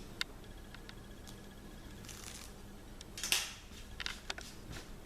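Soft rustling of the garment's fabric being handled, loudest a little after three seconds in, with a few light clicks.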